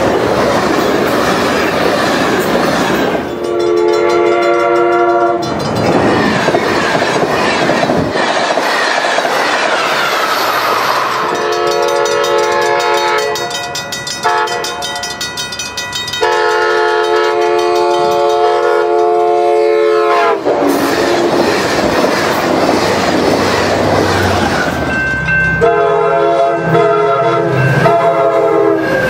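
Diesel passenger trains passing at speed, their wheels rumbling and clacking on the rails. A multi-chime locomotive air horn sounds a long chord a few seconds in, sounds again for much of the middle, and gives several short blasts near the end.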